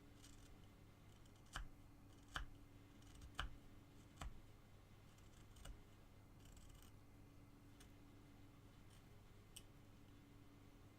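Carving gouge cutting into basswood: four short crisp snips, about one a second, then a few fainter ticks and light scraping, over a faint steady hum.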